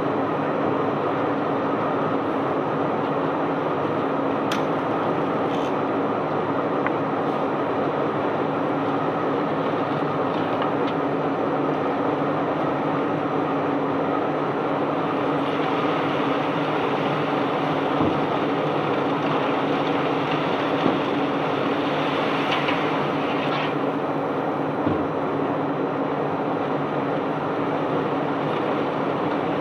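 Barge unloading machinery running steadily with a constant hum, over a continuous rush of crushed white limestone flowing out of the hold. There are a few faint knocks now and then.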